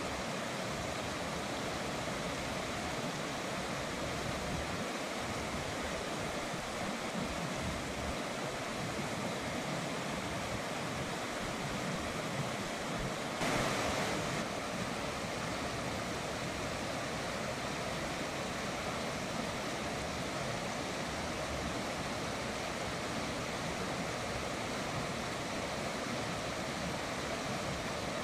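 River water rushing steadily, an even hiss-like flow, with one brief louder rush about halfway through.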